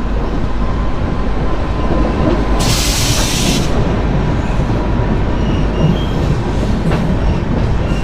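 Moving train heard from on board: a steady rumble of wheels on the track, with a brief hiss about three seconds in.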